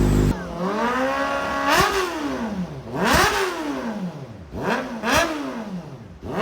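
Kawasaki ZX-4RR inline-four engine free-revving, blipped about four times: the pitch climbs quickly to a high peak, then falls back as the revs drop. A loud steady drone stops right at the start.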